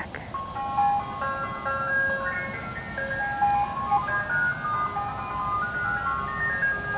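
Ice cream truck's chime speaker playing its jingle, a simple melody of plain electronic notes stepping up and down, over the low rumble of the truck.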